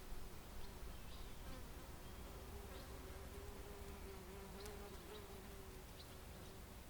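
A flying insect buzzing close by in one steady, slightly wavering note that stops near the end. Short high bird chirps come and go over a low rumble of distant highway traffic.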